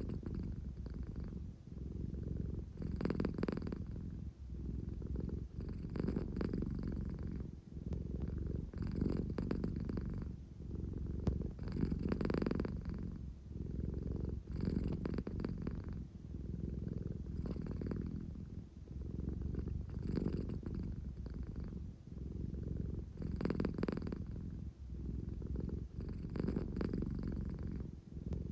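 American Shorthair cat purring steadily, the low rumble swelling and easing with each breath about every three seconds. It is the purr of a drowsy cat wanting affection.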